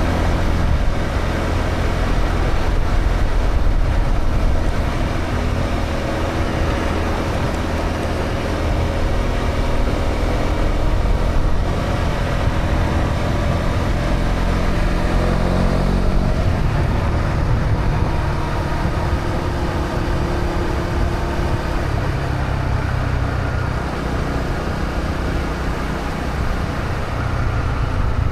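Honda CB125R's single-cylinder 125 cc four-stroke engine running through its stock exhaust while riding on the road, with the engine note changing about halfway through.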